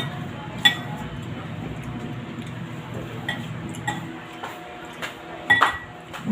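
Spoon or cutlery clinking against a dish while eating, a few separate clinks with a short ring, the loudest a little before the end.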